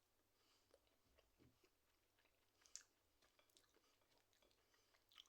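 Faint chewing of a mouthful of balti chicken pie, with small scattered mouth clicks.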